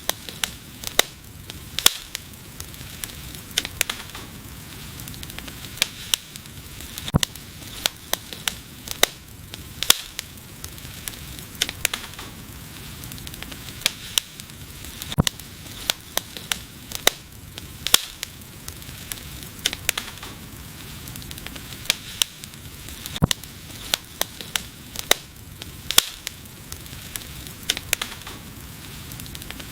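Wood fire burning, with a steady soft hiss and frequent sharp, irregular crackles and pops.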